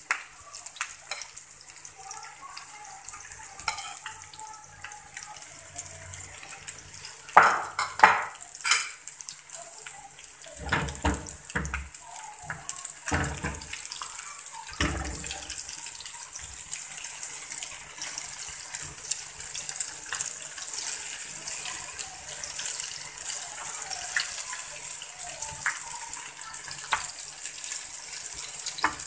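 An egg, onion and green-chilli omelette sizzling steadily on a large black griddle (tawa), with oil frying a ginger-garlic tadka in a small pan beside it. A few sharp knocks of utensils on the pans come between about seven and fifteen seconds in.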